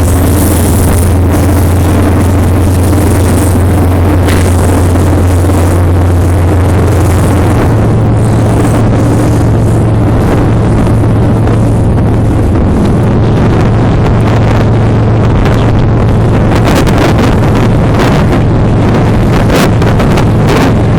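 Freight train running, a steady low drone with wind buffeting the microphone. The drone steps up in pitch about seven seconds in.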